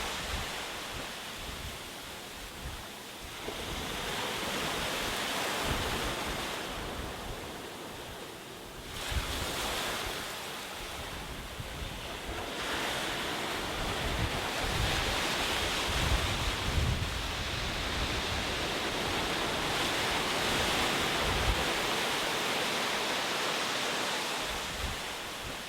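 Ocean surf: waves breaking and washing in, the rush of water swelling and easing in slow surges every few seconds, with a low gusty rumble of wind on the microphone underneath.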